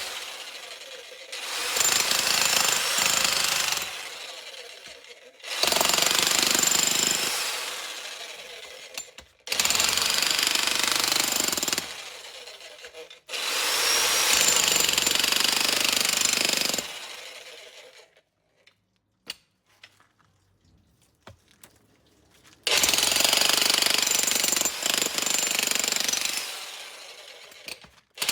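DESHI Z1G-DS-65C 1700 W electric demolition hammer with a point chisel, hammering concrete in five bursts of a few seconds each. Each burst fades out gradually as the hammer winds down. About two-thirds of the way through there is a pause of a few seconds with only a few faint knocks.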